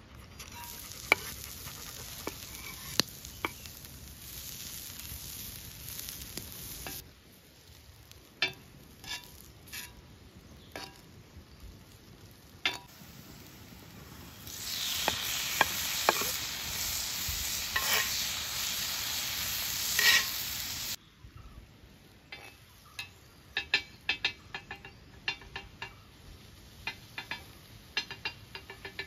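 Chopped onion sizzling in hot oil on a cast-iron griddle over a wood fire, with sharp taps and scrapes of a utensil against the pan. The sizzle grows louder about halfway through, when chopped tomato goes into the pan. Near the end there are many quick taps of stirring over a fainter sizzle.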